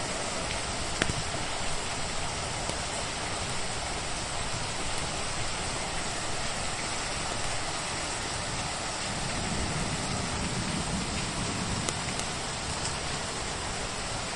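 Steady rain falling, mixed with a wood fire in a fireplace giving a few sharp crackles, one about a second in and another near the end.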